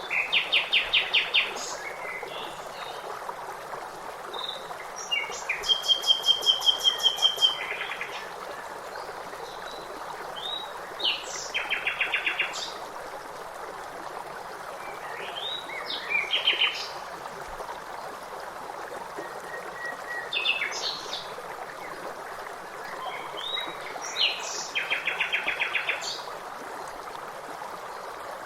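Songbirds singing over the steady rush of flowing water. Every few seconds a bird gives a fast trill of rapidly repeated notes, with short chirps in between.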